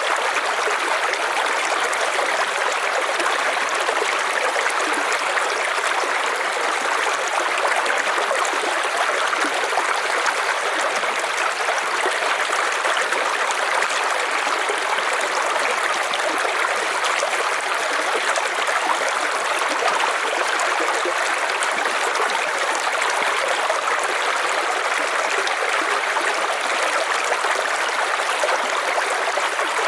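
River water flowing over rocks, a steady rushing and burbling that holds constant throughout.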